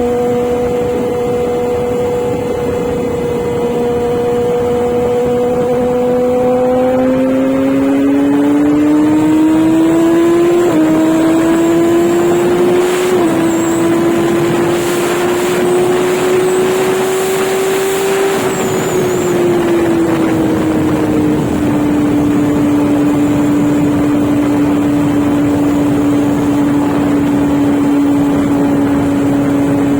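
Inline-four sport motorcycle engine running at road speed with wind rush. The revs climb slowly, change in two quick steps at about a third and nearly halfway through, then ease off and hold steady.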